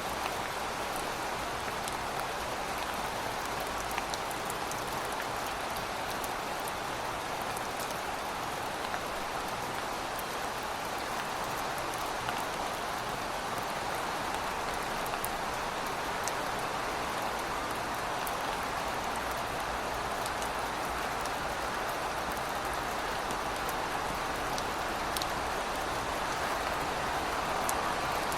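Heavy rain falling steadily, a dense even hiss with scattered individual drops pattering close by.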